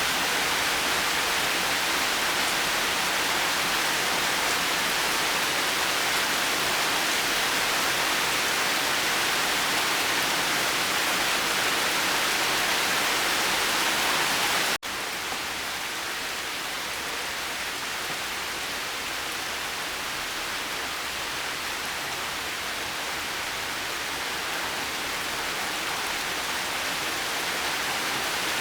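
Steady rain, an even hiss of countless drops. About halfway through it cuts out for an instant and comes back a little softer, building slightly again near the end.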